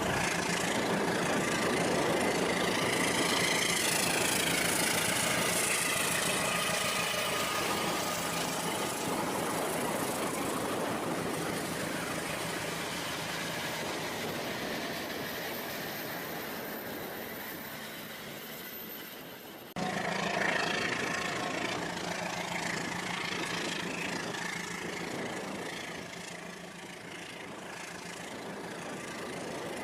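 Rail King battery-powered toy train running on its track, a steady mechanical motor-and-wheel noise. An abrupt change about two-thirds through.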